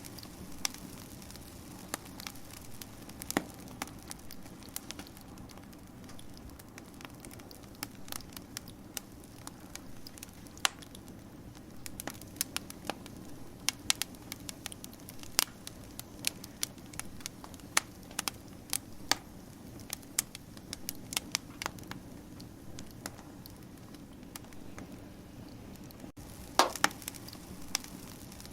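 Wood fire crackling and popping: irregular sharp snaps over a steady low hiss of burning, with a quick cluster of louder pops near the end.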